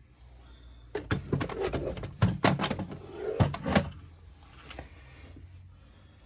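A quick run of sharp knocks and clatters, handling noise from something being picked up and put down, starting about a second in and lasting about three seconds, with one more knock near the end, over a low steady hum.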